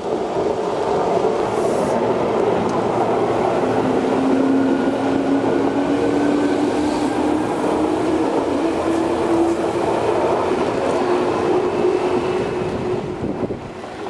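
Tobu 10050 series electric train pulling out of the station and accelerating past: steady running noise from wheels and motors, with a tone that rises slowly in pitch. The noise fades near the end as the last car goes by.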